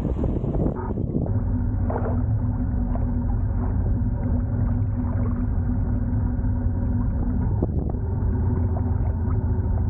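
Atomic 4 four-cylinder gasoline inboard engine of a Newport 27 sailboat running steadily at a constant speed under way, with a brief hiss near the start.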